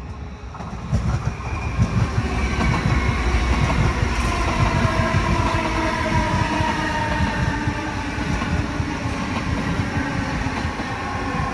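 A train running through the station, growing loud about a second in, its wheels clattering over the rails, with a whining tone that falls slowly in pitch.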